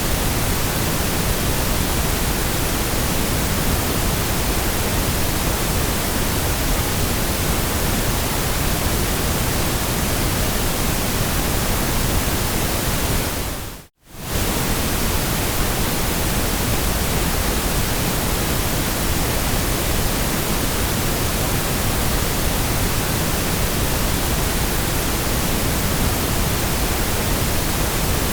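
Steady hiss of generated white noise, even across low and high pitches. About halfway through it fades out to near silence for a moment and comes straight back.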